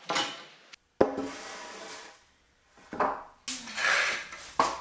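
Lengths of 2x4 lumber being handled: a sharp wooden knock about a second in, then boards scraping and sliding against each other.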